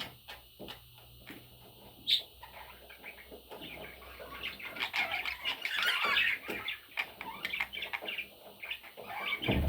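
Pet budgerigars chirping and chattering: a single short chirp about two seconds in, then a rapid run of warbling and chirps that builds toward the middle and carries on to the end.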